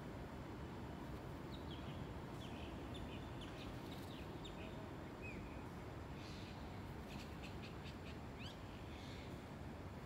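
Birds chirping in short, quick calls in two bursts, over a steady low outdoor background hiss.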